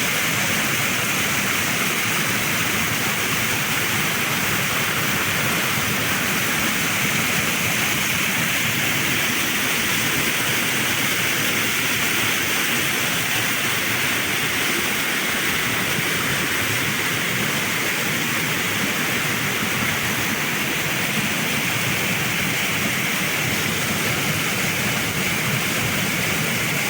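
Steady, unbroken rush of flowing water, loud and even throughout.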